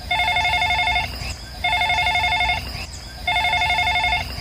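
Telephone ringing with three warbling rings, each about a second long with short gaps between them.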